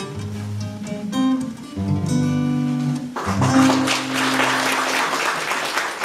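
Acoustic guitar playing the closing chords of a song. About halfway in, the last chord rings on as an audience starts applauding.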